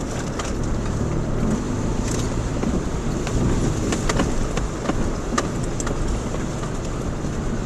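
Subaru Outback driving on a rough unpaved road, heard from inside the cabin: a steady engine and tyre rumble with scattered sharp clicks and rattles.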